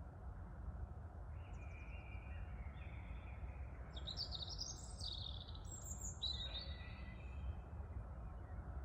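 A songbird singing a string of high chirping and trilling phrases, busiest and loudest in the middle, over a steady low rumble of wind.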